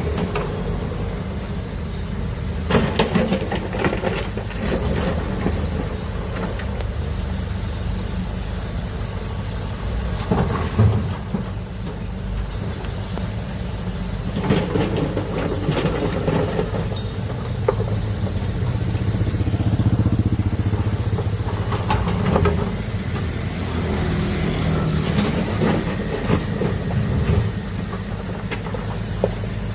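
Heavy diesel engine of a large excavator running steadily under load, with irregular metallic clanks and knocks from the bucket and tracks as it works.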